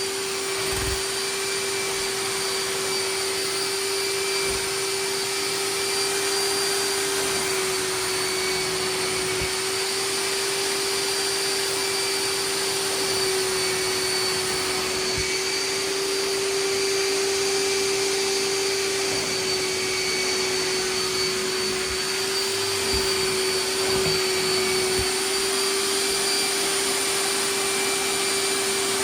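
Hoover wet/dry vac (11.6 amp) running steadily with a constant motor whine and rushing air, sucking water out of a saturated rug, with a few faint knocks of the nozzle against the floor.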